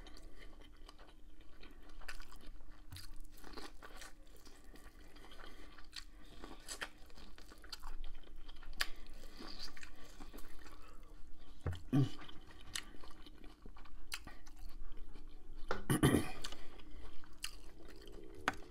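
Close-miked chewing and crunching of a person eating corn on the cob, with many short irregular mouth clicks.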